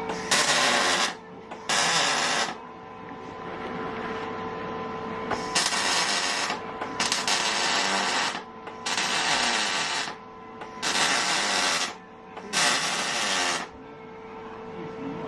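Welding in seven short bursts of crackling hiss, each about a second long, with a steady hum between them.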